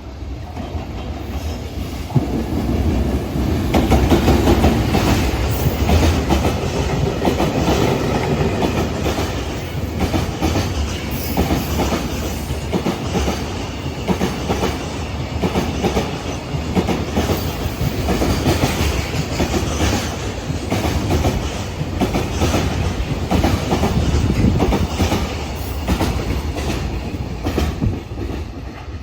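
Freight train passing, its wheels clattering over rail joints in a steady run of clicks, building up over the first few seconds.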